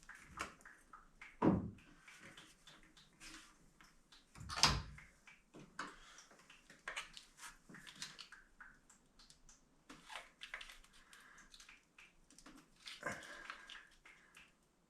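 Hand-tool and metal-part clatter from work on a car's radiator hose connections: scattered clicks and knocks, with two louder thumps about one and a half and four and a half seconds in.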